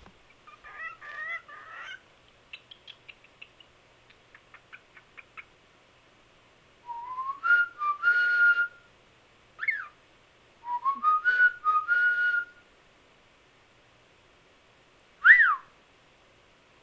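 Cockatiel whistling: soft chatter and a run of quick clicks, then two rising whistled phrases, each ending on a held note, and near the end one sharp up-and-down wolf whistle.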